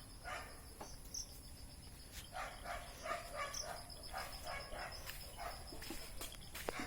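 A dog barking faintly, a quick run of short barks about two to four and a half seconds in, over steady high insect chirping.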